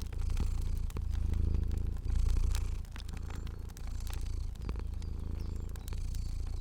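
Cat purring, a low rumble that swells and eases with each breath, about once a second. Scattered sharp crackles of a fire sound over it.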